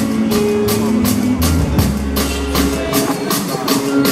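A band playing live, with no singing: the drum kit keeps a steady beat of about four strokes a second under held bass notes and guitar.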